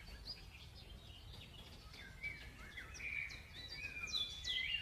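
Monk parakeet chattering: short chirps and squawks, sparse at first, then busier and louder over the last couple of seconds, over steady low background noise.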